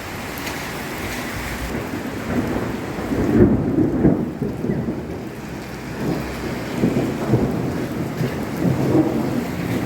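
Heavy rain pouring down with thunder rolling through it, the rumble loudest about three or four seconds in and swelling again twice later.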